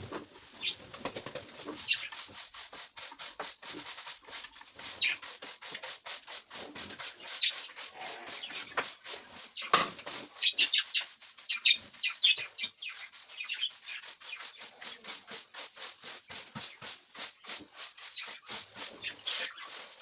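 Dried loofah gourd being rubbed and scraped by hand, a rapid, even run of dry rasping strokes about four a second.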